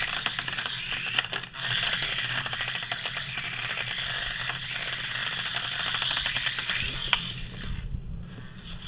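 Broken toy helicopter running, a dense buzzing rattle full of rapid clicks. It dies down near the end.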